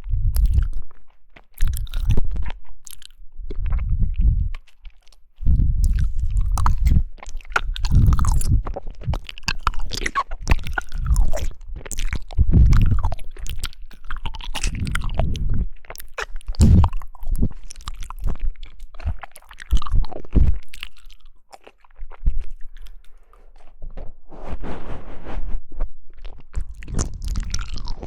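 Close-miked chewing and biting of jelly: irregular bursts of wet clicks and crunchy crackles, with short pauses between bites.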